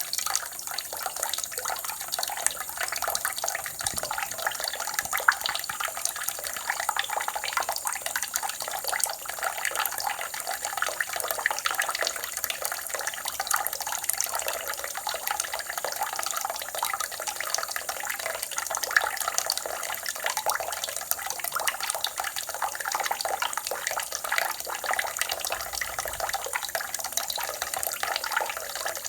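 Water running and splashing steadily, an even flow full of fine crackle with no pauses or changes.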